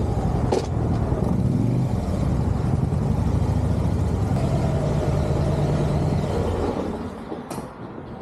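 Harley-Davidson motorcycle's V-twin engine running with a steady low note, shifting pitch once early on, then falling away near the end.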